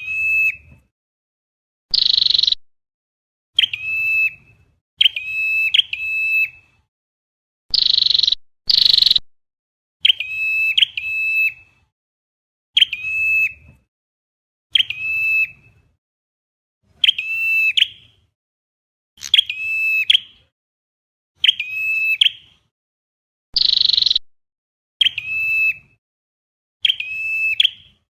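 Recorded calls of the chim sâu đầu đỏ, a flowerpecker, played on a loop as a trapping lure: short sharp chip notes, often in pairs or threes, repeating every second or two, mixed with a few longer buzzy notes, with dead silence between.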